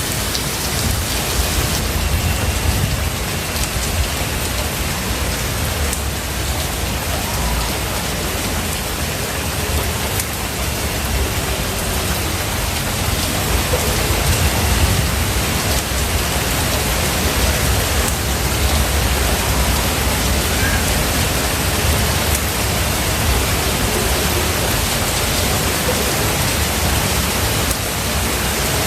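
Steady heavy rain, with a continuous low rumble of thunder underneath.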